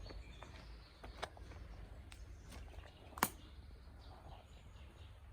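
Quiet outdoor ambience with a faint low rumble and a few short, sharp clicks, the loudest about three seconds in.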